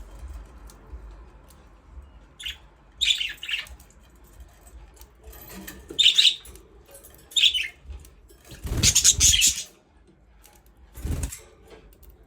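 Budgerigars chirping in scattered short bursts, about six over the stretch, with the longest and fullest burst about nine seconds in.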